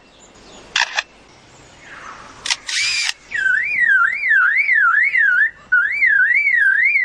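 Lyrebird mimicking artificial sounds: a couple of sharp clicks like a camera shutter, then a loud alarm-like whistle that sweeps up and down about three times a second, with a short break midway.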